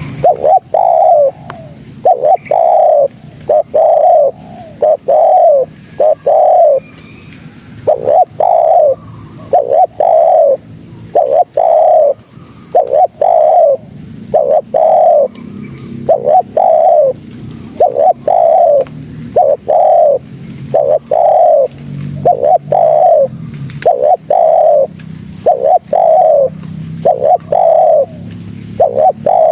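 Spotted dove cooing: a long series of short coo notes at roughly one a second, broken by a few brief pauses, each note dropping slightly in pitch. The uploader labels it a female's call to males.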